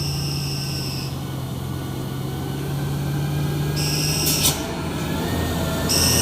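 Heavily loaded truck's diesel engine labouring up a steep climb, a steady low drone, with a high whine that cuts in and out a few times.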